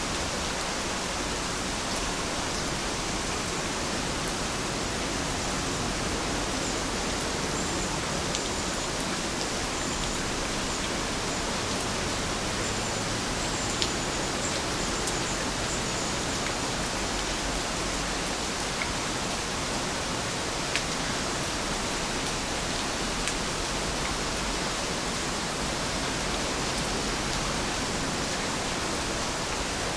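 Heavy rain falling in a steady hiss, with a few sharp drop ticks now and then.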